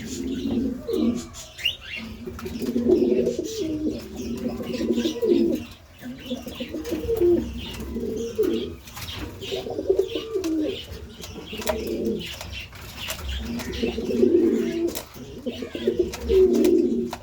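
Domestic pigeons cooing in their loft, several birds overlapping in repeated low rolling coos with short pauses between them, and fainter higher chirps mixed in.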